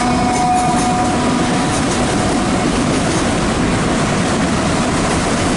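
Freight train of empty autorack cars rolling past at close range: a steady rumble and rattle of wheels on rail. A mid-train diesel locomotive's hum passes in the first second or so and fades out.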